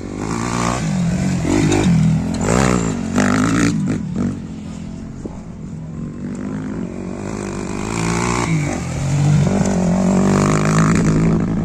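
Supermoto racing motorcycles revving hard as they pass, engine pitch rising and falling with acceleration and gear changes. Loudest around two to three seconds in and again from about nine seconds.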